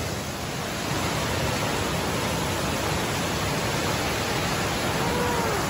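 Steady, even rush of water from a mountain-stream waterfall.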